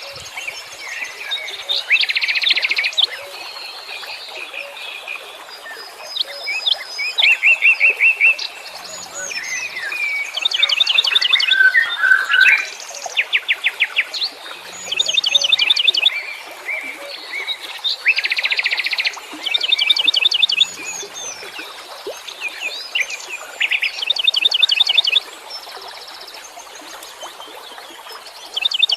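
Several wild songbirds singing over one another: fast trills and quick runs of repeated chirps, one after another without a break. Under them, a faint low call comes about every six seconds.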